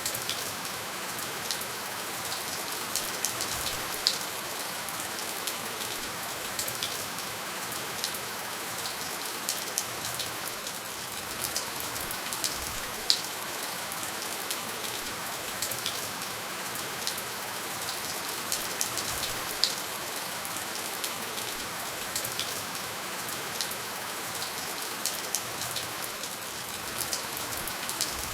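Steady rainfall, an even hiss with close raindrops striking a surface as scattered sharp ticks. No thunder.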